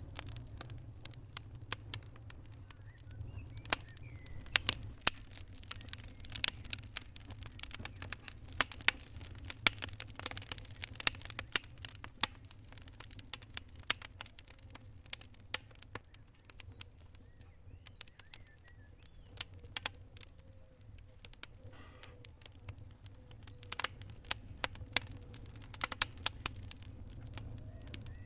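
Wood fire crackling: irregular sharp pops and snaps over a steady low rumble of the flames, coming in thicker flurries now and then.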